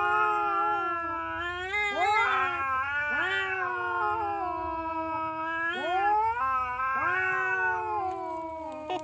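A cat yowling in long drawn-out cries, each swooping up in pitch at its start and then holding steady, several in a row.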